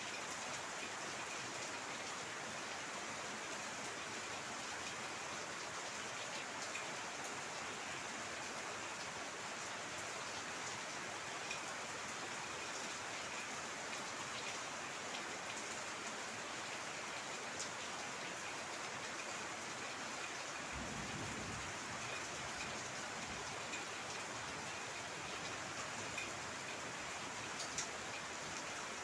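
Heavy rain falling steadily, with individual drops ticking on a surface. About two-thirds of the way through comes a brief low rumble lasting a second or two.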